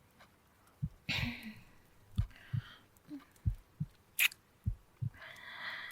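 Slow heartbeat, its soft low thumps coming in lub-dub pairs about once a second, with quiet breaths over it and a single sharp click about four seconds in.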